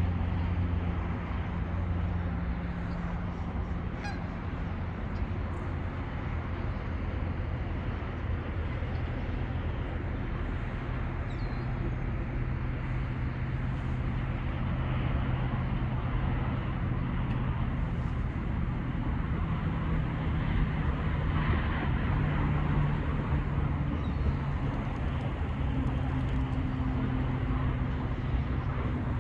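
A steady engine drone, its low pitch shifting slowly up and down, as from passing vehicles or an aircraft.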